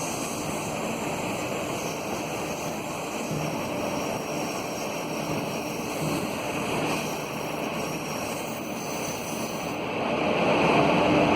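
Passenger train running: a steady rumble and rush of wheels on track and moving air, growing louder about ten seconds in.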